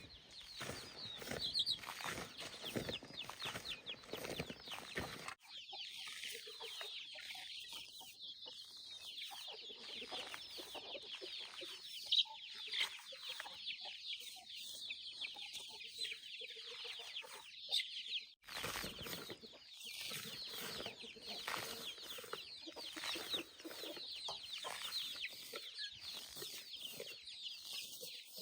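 Farmyard chickens clucking over a constant chorus of short, high-pitched chirps, with the background changing abruptly twice.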